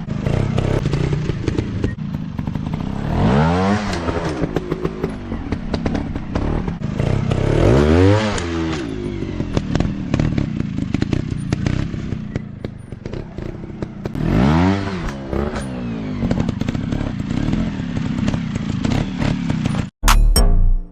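Dirt bike engine running and revving up and back down three times, with clattering knocks over rough ground. Music starts near the end.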